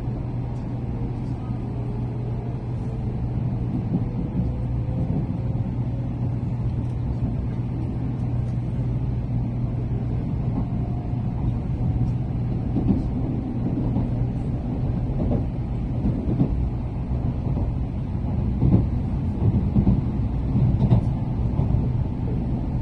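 Running noise heard inside a Tokaido Shinkansen carriage: a steady low rumble and hum, with a faint whine that rises slowly in pitch over the first ten seconds or so. A few louder knocks come near the end.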